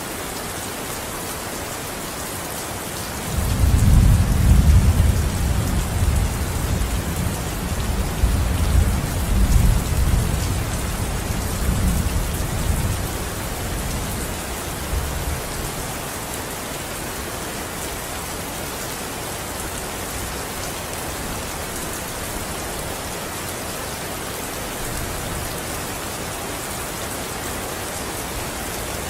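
Steady rain falling, with a roll of thunder that breaks suddenly a few seconds in and rumbles on, fading away over about ten seconds.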